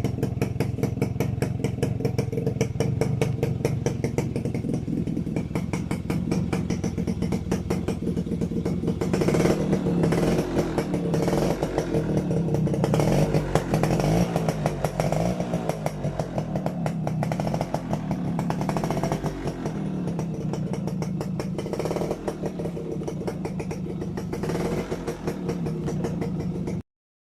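Suzuki RC100's small single-cylinder two-stroke engine running, steady at first, then revved up and down repeatedly with the pitch rising and falling. The sound cuts off suddenly near the end.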